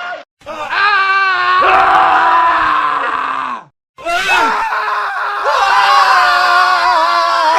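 Men screaming, cut together. A scream of about three seconds ends in a falling pitch, then after a brief dead gap a second stretch of screaming starts and runs on, growing louder partway through.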